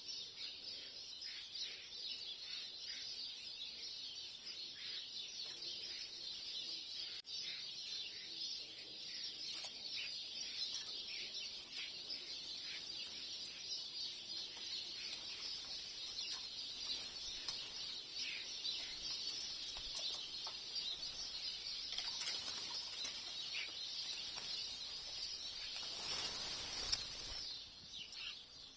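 A flock of European starlings chattering, with many overlapping short high calls and whistles. A brief rush of noise comes near the end before the calls fade.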